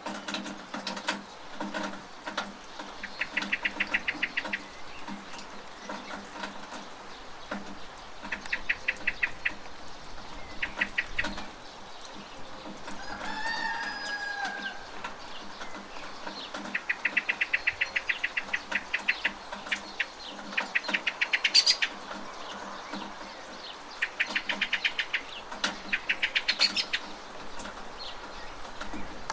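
Steady rain with birds calling over it: several bursts of fast, chattering trills, and one longer bending call about halfway through.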